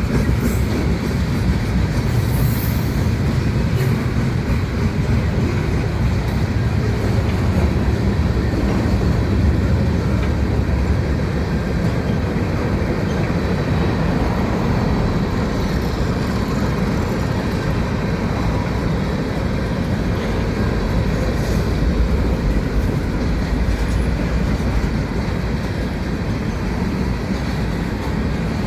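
A manifest freight train's cars rolling past on the rails, a steady, continuous noise of wheels on track that is heaviest in the low end.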